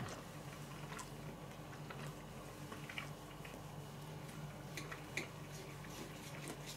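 Faint close chewing of a mouthful of burger, with a few small mouth clicks, over a low steady hum.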